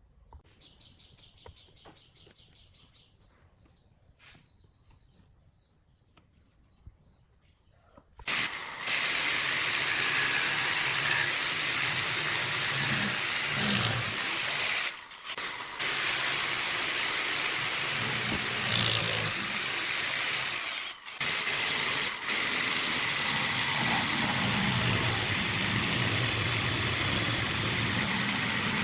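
Faint bird chirps at first, then a loud, steady hissing machine noise cuts in suddenly about eight seconds in. The noise briefly dips twice and otherwise runs on evenly.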